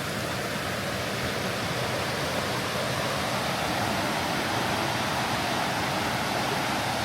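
Steady rushing of falling or flowing water, an even hiss without breaks.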